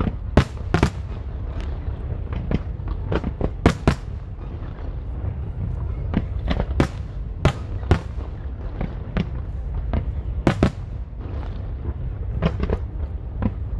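Aerial fireworks bursting: an irregular string of sharp cracks and bangs, several close together in places, over a continuous low rumble.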